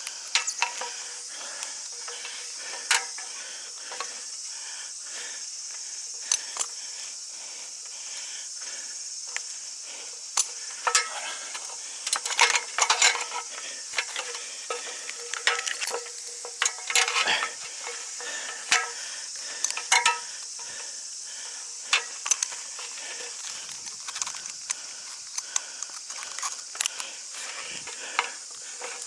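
Irregular metallic clinks, clatters and rattles of hard gear being handled, bunched into busier flurries in places, over a steady high hiss.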